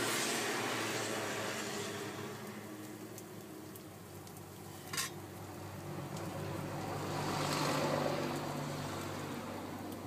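Takoyaki balls sizzling in a takoyaki pan: a hiss that swells and fades, over a steady low hum, with one sharp click about five seconds in.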